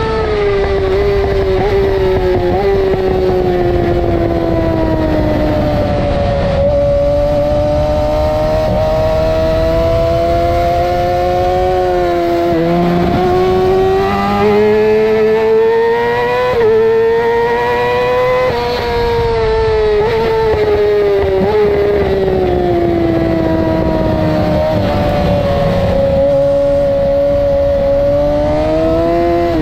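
2008 Yamaha R6's inline-four engine at high revs on track, its pitch falling for several seconds, jumping about six seconds in, climbing slowly, then falling and rising again near the end as the bike runs through its gears. A steady rush of wind noise runs under it.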